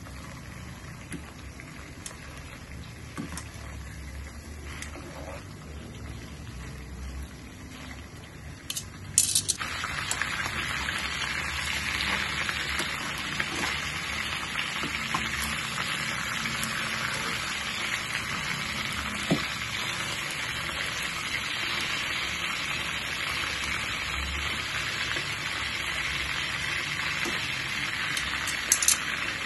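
Chicken legs frying in melted butter in a nonstick pan. A soft sizzle runs for the first nine seconds or so, then jumps suddenly to a loud, steady sizzle with a clack of metal tongs on the pan. A few more tong clicks come near the end.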